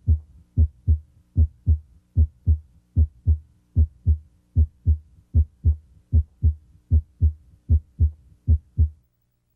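Heart sounds at the mitral area: a steady lub-dub at about 75 beats a minute, pairs of low thumps in which the first sound (S1, closure of the mitral valve) is louder than the second (S2). The beats stop about nine seconds in.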